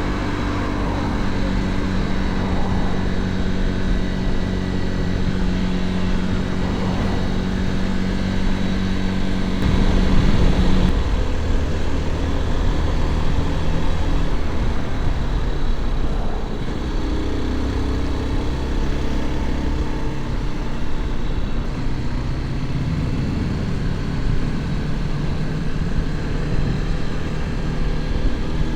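Motorcycle engine running under way with wind and road noise, its pitch holding steady for about ten seconds and then dropping and shifting as the engine speed changes.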